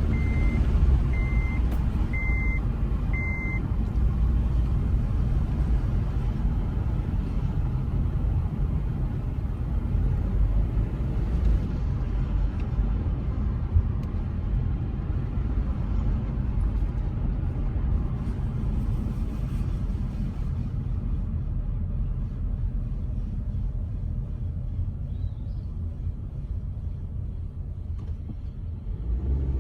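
Honda HR-V driving on a road, a steady low road and tyre rumble. There are five short, evenly spaced high beeps in the first few seconds.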